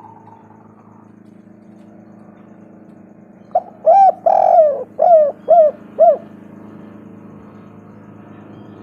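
Spotted dove cooing: one phrase of about six short, arched coos over roughly two and a half seconds, with a longer note second in line, over a steady low hum.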